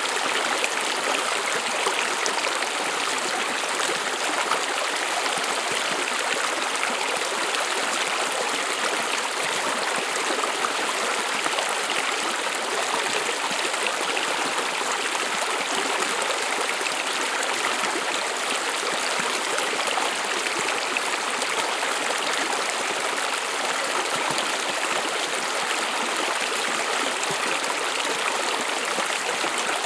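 A stream of water running steadily over stones, an even rushing and trickling that does not change.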